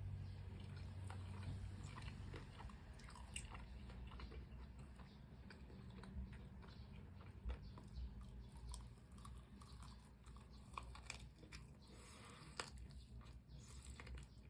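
Close-miked chewing of crispy fried chicken, with scattered crunchy clicks as the coating is bitten and chewed. A low hum sounds for the first couple of seconds.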